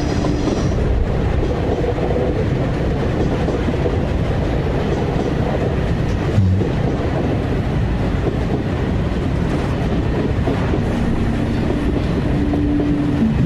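Train running on the rails: a steady, even rumble, with a short knock about six and a half seconds in and a few held tones coming in near the end.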